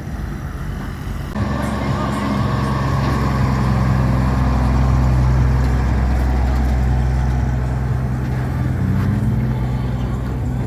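Classic car engines running as the cars pull out and leave the show: a steady low engine drone. It changes abruptly to a louder, fuller sound about a second and a half in.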